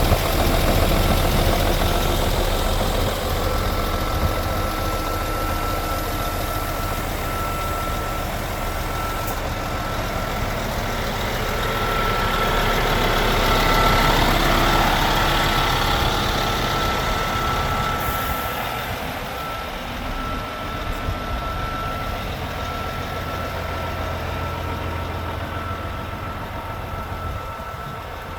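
Scania R480 truck's diesel engine idling steadily, with a high electronic beep sounding on and off over it.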